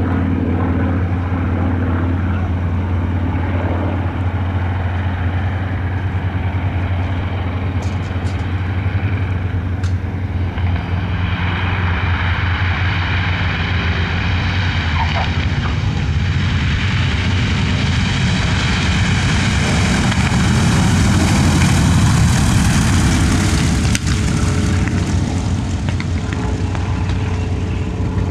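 The twin Wright R-2600 Cyclone radial engines of a North American B-25J Mitchell running with a steady low drone. It grows louder and brighter from about ten seconds in, peaks about three quarters of the way through, then eases off.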